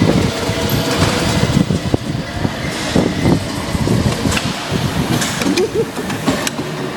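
Go-kart engines running, a continuous rumble with scattered knocks.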